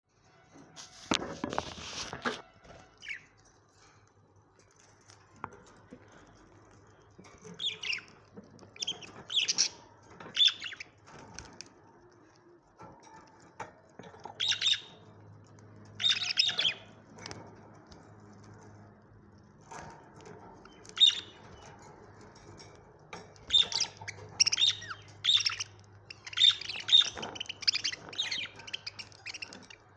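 Pet budgerigars chirping and chattering in short bursts of sharp, high chirps, sparse at first and more frequent in the last few seconds. A brief rustling burst, like wings fluttering, comes about a second in.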